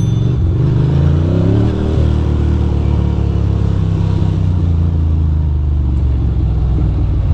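2006 Ducati Monster 620's air-cooled V-twin engine under way at low speed, its pitch rising as it picks up over the first two seconds, then running steadily.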